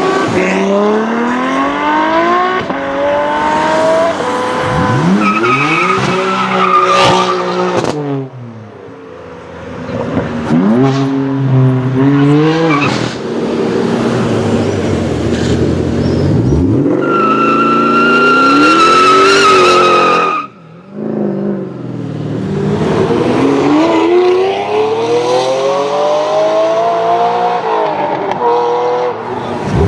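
High-performance car engines revving and accelerating hard. The engine note climbs and drops again and again through gear changes. A steady high-pitched squeal is held for about three seconds around two-thirds of the way in, then the sound drops out sharply for a moment.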